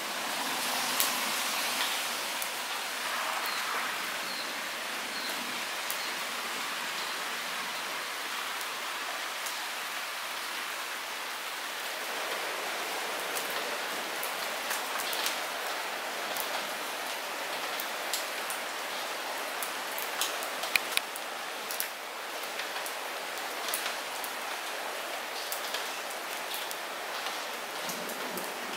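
Light rain falling steadily as an even hiss, with scattered individual drops ticking sharply on nearby surfaces and a few louder drops about two-thirds of the way through.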